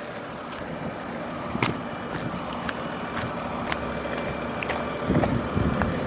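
Footsteps squelching through thick mud, with wet clicks and a few heavier steps about five seconds in, over wind noise on the microphone.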